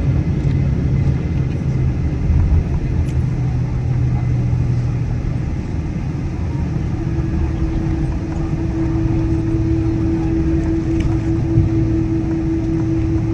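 Boeing 777-200ER cabin noise while taxiing to the gate: a steady low rumble from the idling jet engines and airframe, with a low hum that fades about five seconds in and a higher steady tone that sets in a couple of seconds later.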